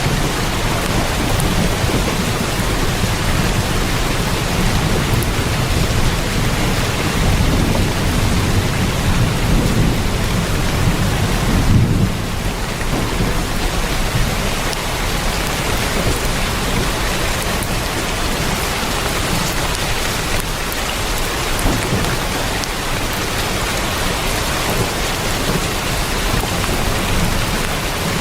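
Heavy rain drumming on a tin roof, a dense steady hiss, with a low rumble of thunder underneath that swells and then cuts off suddenly about twelve seconds in.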